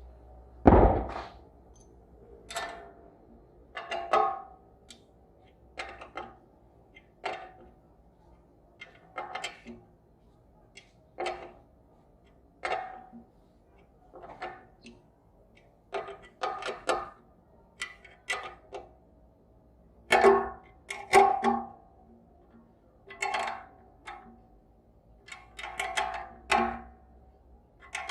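Repeated sharp metallic clanks and taps, each with a short ring, at an irregular pace of roughly one a second, some in quick pairs: metal striking metal, like a tool working the bolts and bracket of a mini satellite dish.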